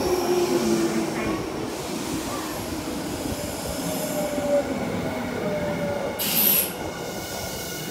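An electric commuter train in the station, running with wheel squeal and motor tones that glide in pitch over a steady rumble. A short, sharp hiss comes about six seconds in.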